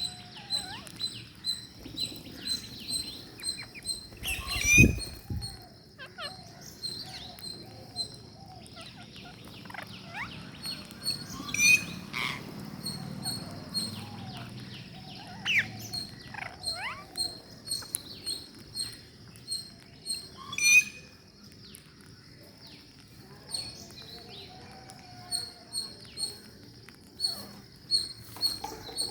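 Ring-necked parakeets chirping: a steady run of short, high chirps about twice a second with quick sweeping notes between, and three louder, sharper calls spread through.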